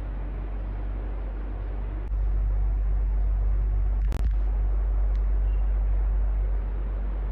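Electric fan running steadily with a low rumble. The sound grows louder about two seconds in and eases back near the end, with a single sharp click a little past the middle.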